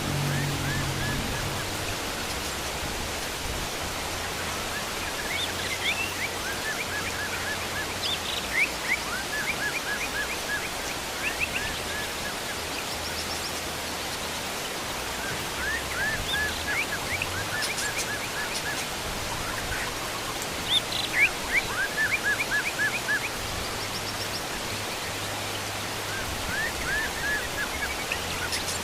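Heavy rain making a steady hiss. Over it, wild birds call in repeated runs of quick, high chirps every few seconds, loudest about two-thirds of the way through.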